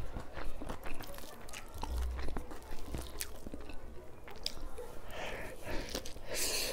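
Close-up chewing and wet mouth clicks of a person eating rice by hand, with the soft squish of fingers mixing rice on the plate. A short louder hiss comes near the end.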